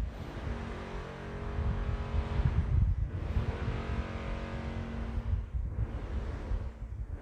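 An engine running steadily: a hum with a heavy low rumble underneath.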